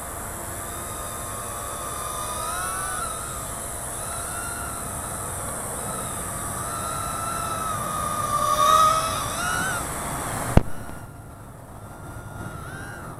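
Micro quadcopter's small electric motors whining, the pitch wavering up and down as the throttle changes. A sharp knock comes about ten and a half seconds in, after which the high hiss stops and the whine is fainter.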